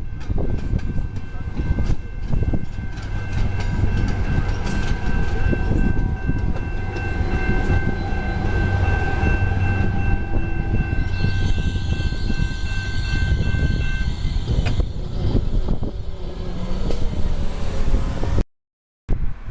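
Commuter train passing close by: a low rumble and wheel clatter, with a few steady high tones held for most of the time and ending about three-quarters of the way through. A hiss rises just before those tones end.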